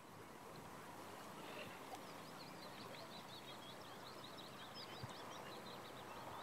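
Small songbird singing a fast twittering run of short high notes from about two and a half seconds in, over a faint, steady rush of flowing river water.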